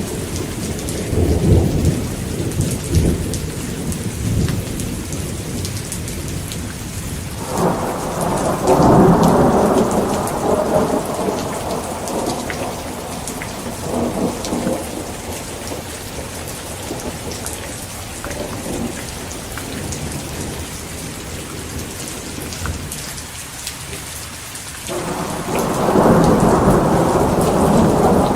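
Heavy rain falling steadily with thunder. Rumbles roll through the first few seconds, a sharp clap breaks about a third of the way in and rolls away over several seconds, and another clap strikes near the end.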